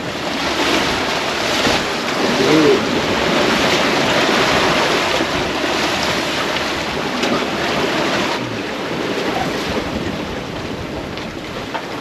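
Open-ocean waves and water rushing along a sailboat's hull while under sail, with strong wind buffeting the microphone. The rush swells and eases, growing softer about two-thirds of the way through.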